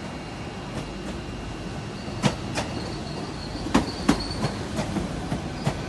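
A Great Western Railway Class 800 train arriving, its wheels clicking over rail joints in pairs, each pair coming about a second and a half after the last, over a steady rumble. A faint high squeal runs through the middle.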